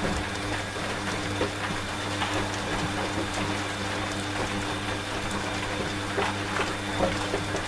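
A washing machine running with a steady low hum, mixed with steady rain and scattered ticks of individual drops.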